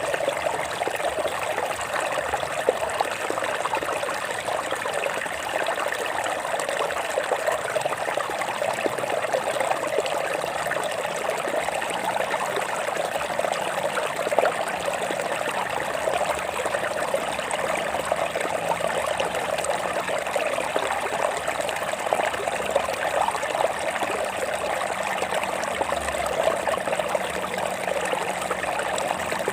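Water trickling and splashing steadily over rocks in a small stream, a continuous even babble with small irregular splashes.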